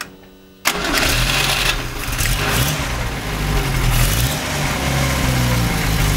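Renault Dauphine's rear-mounted four-cylinder engine starting: it catches suddenly just under a second in and runs unevenly, its pitch rising and falling for a few seconds, then settles toward a steady idle.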